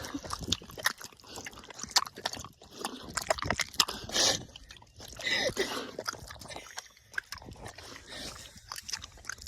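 A small pig chewing gummy candies: a run of quick, irregular wet smacks and clicks of its mouth.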